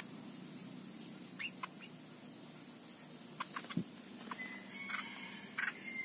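Birds giving short, scattered chirps, with one brief held whistled note a little after four seconds in, over a steady background hum. A single soft low thump comes just before the four-second mark.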